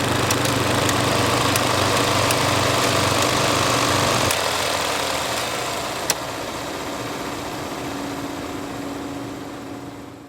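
Film projector running: a steady mechanical whir and hum with fine ticking. About four seconds in the low hum drops away, a single sharp click comes about two seconds later, and the sound fades out near the end.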